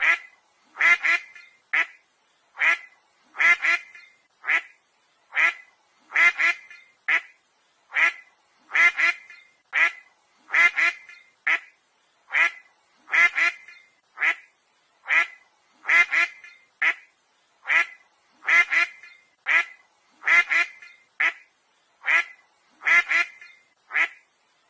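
An animal giving a long series of short, evenly spaced calls, a little more than one a second.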